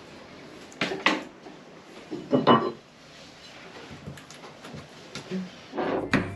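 Hard objects knocking and clattering as they are handled, with loud knocks about a second in and again about two and a half seconds in, and smaller clicks between. Music with a drum beat comes in near the end.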